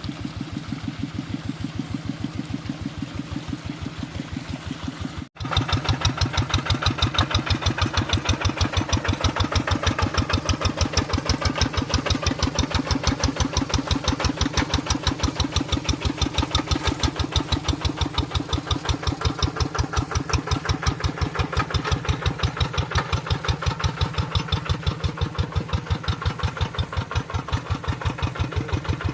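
Tractor engine running with an even, rapid beat. It cuts out for an instant about five seconds in and comes back louder.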